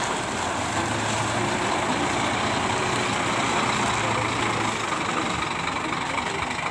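Diesel engine of a Scania K410IB tri-axle coach running steadily at a low, even speed.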